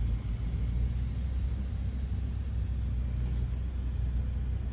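Porsche being driven at a steady pace: a steady low engine and road rumble heard from inside the cabin.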